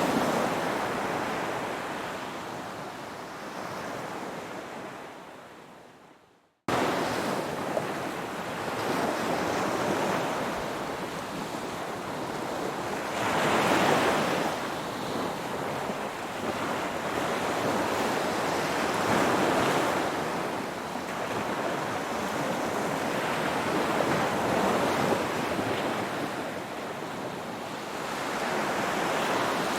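Ocean waves, a continuous rush of surf that swells every five or six seconds. A few seconds in, the surf fades away to a moment of silence, then cuts back in abruptly.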